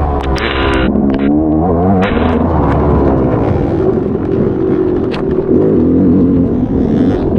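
Motocross bike engine revving up and down repeatedly under racing load, heard from on the bike, with scattered sharp clicks and knocks.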